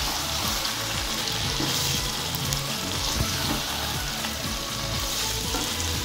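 Chicken in a thick onion-and-yogurt masala frying in a nonstick kadai, with a steady sizzle, while a wooden spatula stirs and scrapes through it. This is the dry frying of the masala in its separated oil, before water goes in.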